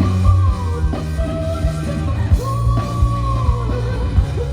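Live rock band playing: a steady pounding rhythm section under long held sung notes that bend slightly in pitch.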